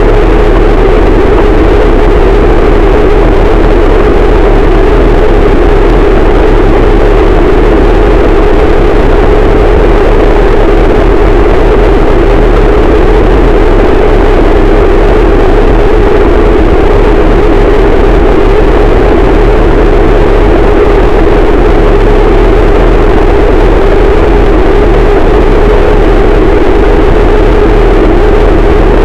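Harsh noise wall: a loud, unbroken wall of distorted static that does not change, with a steady rumbling band in the lower range.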